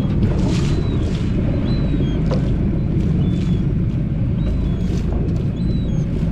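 Steady low rumble of a fishing boat running on the sea, with a few short high chirps and faint clicks over it.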